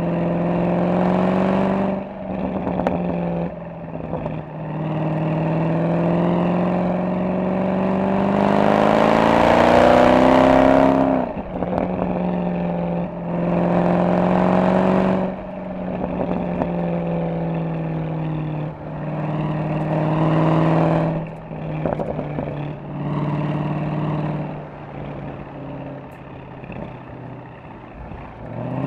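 Mercedes-AMG SL63's V8 engine and exhaust under way, rising in pitch through a hard acceleration about a third of the way in before dropping back. Several shorter surges of throttle come between stretches of steady cruising.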